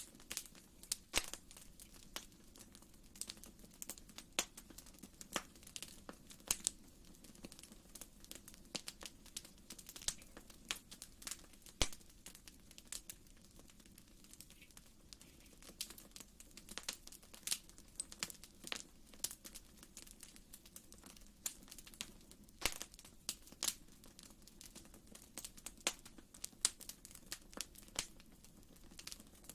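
Wood fire crackling in a fireplace: irregular sharp pops and snaps, a few louder than the rest, over a soft low rumble of the flames.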